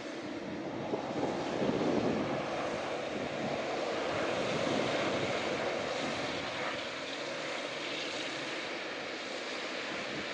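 Jet airliner's engines running as the aircraft passes, a steady rushing noise that builds over the first few seconds, is loudest around the middle, then slowly fades.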